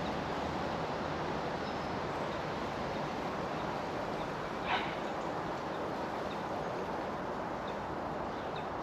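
Steady outdoor background noise, an even hiss with no engine note. There is one short sharp sound about halfway through and a few faint high chirps.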